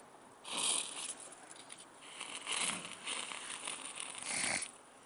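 Match struck against the side of a matchbox: three short scratchy rasps about two seconds apart.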